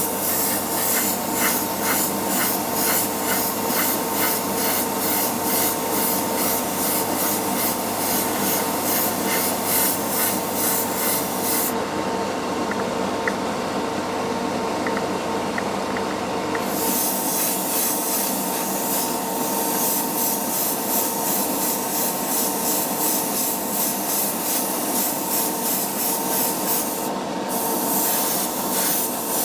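Steady, rhythmic rubbing strokes, about two or three a second, as of abrasive working a small part, over a constant hum. The strokes pause for a few seconds in the middle.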